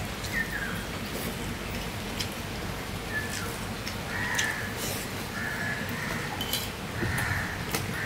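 Close-up eating sounds of rice and egg fry eaten by hand: chewing with wet mouth clicks and lip smacks. Short high chirps recur about every second, several of them falling slightly in pitch.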